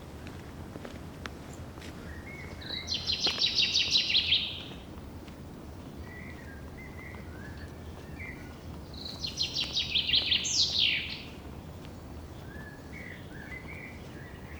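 A forest songbird sings twice, each song a fast, loud trill of repeated high notes lasting about two seconds; the second ends in a quick downward-sliding note. Softer short chirps come between the songs, over a steady low background rush.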